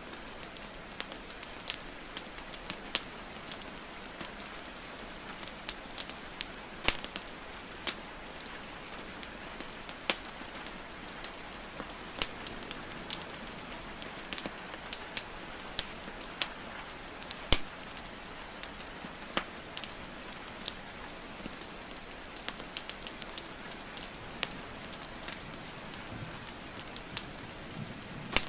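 Wood fire crackling, with irregular sharp pops several times a second, over a steady hiss of falling rain.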